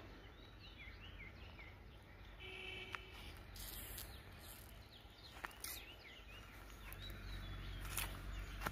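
Faint outdoor ambience with birds chirping, a few sharp clicks, and a low rumble that grows louder near the end.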